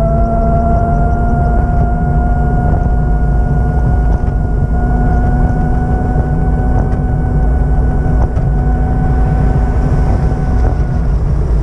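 A vehicle running with a heavy low rumble and a steady whine that creeps up slightly in pitch; the whine drops out for a moment near the end.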